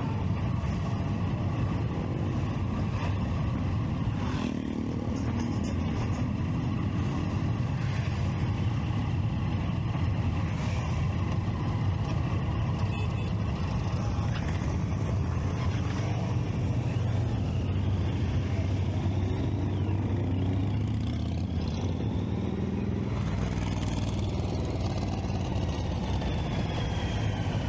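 Triumph Street Triple 675 motorcycle's three-cylinder engine running steadily amid road traffic, a continuous low rumble with a few faint rising and falling pitches in the second half.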